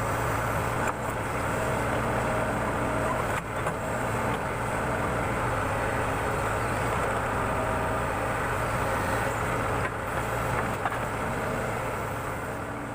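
Backhoe loader's diesel engine running steadily, with a few short knocks.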